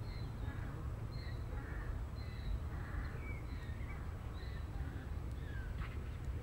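A bird calling repeatedly, short high calls about once a second, over a steady low rumble.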